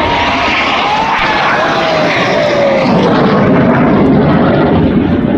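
Aircraft flying past at low altitude: a loud engine roar that swells toward a peak about four seconds in, with a whine falling steadily in pitch as it passes.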